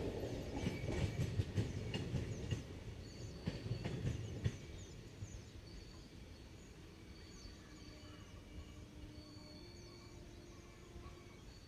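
A receding passenger train's wheels rumbling and clacking over the rail joints, dying away, with the last few clacks about four seconds in. After that, faint bird calls.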